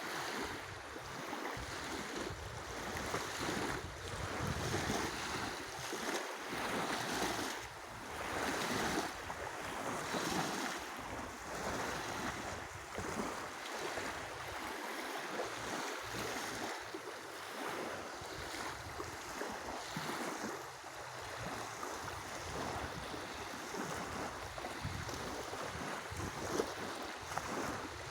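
Lake waves washing onto the shore in a steady, swelling and ebbing rush, with wind buffeting the microphone.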